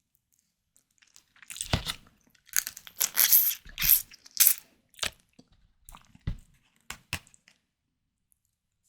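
Close-miked mouth sounds of eating white tiger prawns: a bite about a second and a half in, then a dense run of sharp crackling chewing sounds, thinning to a few separate clicks near the end.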